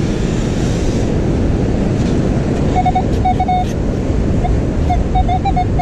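Strong wind buffeting the microphone over the wash of surf, a steady rushing noise. From about three seconds in, a metal detector (Minelab Manticore) gives short, choppy beeps at one mid pitch as the coil is swept over the sand.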